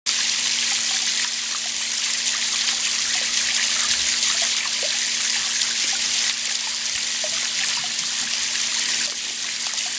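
Water running from a garden hose, a steady hiss with a faint low hum beneath it.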